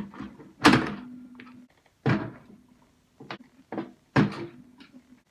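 Knocks and clanks of microwave sheet-metal parts being handled during disassembly: about six sharp hits, the loudest about a second in, several followed by a brief low metallic ringing.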